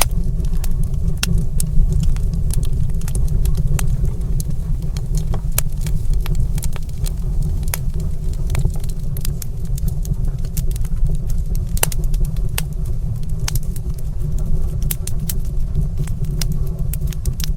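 Wood fire crackling in a stone fireplace: frequent sharp, irregular pops and snaps over a steady low rumble.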